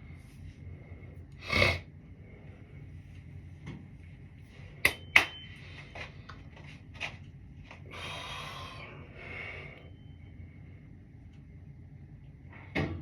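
A few scattered knocks and sharp clicks over a steady low hum with a faint high whine. The loudest are two sharp clicks in quick succession about five seconds in, with a heavier thump near the start and another near the end, and a brief rustle about two-thirds through.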